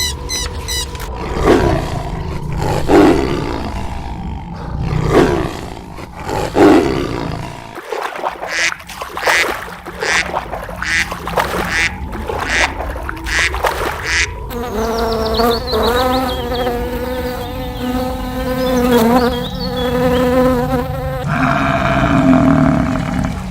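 A run of different animal calls, one clip after another: a series of short repeated calls, then a rapid string of short calls, then a long, steadily pitched call, each changing abruptly to the next.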